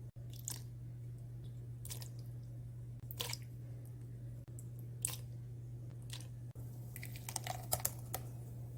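Scattered crisp, crunchy handling sounds of napa cabbage and vegetables during kimchi preparation, a few single noises and then a quick cluster near the end, over a steady low hum.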